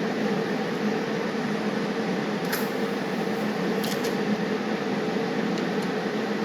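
Brazing torch flame burning with a steady hiss as it heats a nut on a steel clamp, with two light clicks about two and a half and four seconds in.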